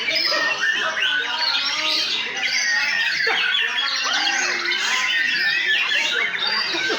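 Many white-rumped shamas singing at once, a dense unbroken chorus of overlapping whistles, trills and harsh chatter, as at a full contest line-up.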